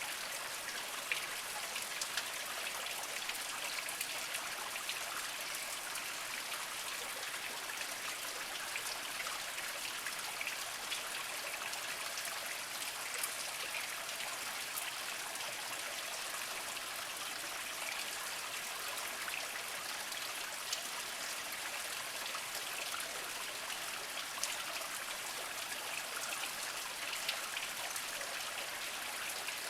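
Small spring trickling over mossy rocks: a steady, even water hiss with many small drips and splashes on top.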